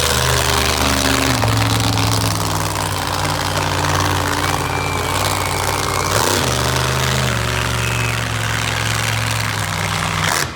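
Monster truck engine running hard. Its pitch steps up and down a few times as the throttle changes, and the sound cuts off abruptly at the very end.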